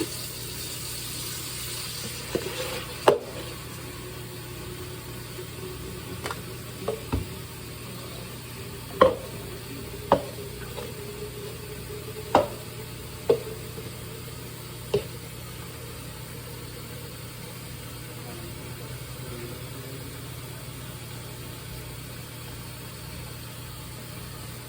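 Cups knocking and clattering against the inside of a dishwasher as soapy water and suds are scooped out. There are about ten sharp knocks in the first fifteen seconds over a steady hiss.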